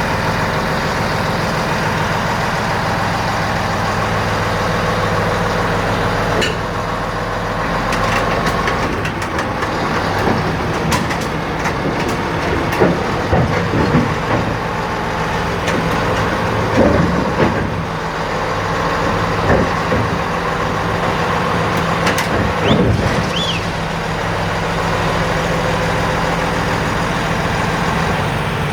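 Chetra T-25 crawler bulldozer's diesel engine running steadily. Through the middle it is joined by repeated metal clanks and short squeals from the steel tracks as the machine moves.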